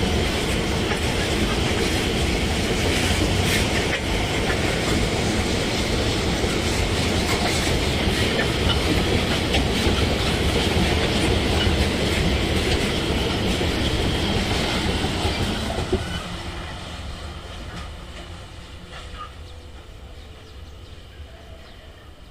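Loaded iron-ore freight train rolling past, its wagons' wheels clicking over the rail joints in a steady loud rumble. About three-quarters of the way in the noise drops away and fades as the train draws off.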